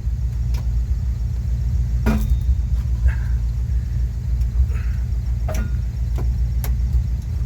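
1973 Dodge D100 engine idling steadily, with a few light clicks and taps on top as parts under the hood are handled.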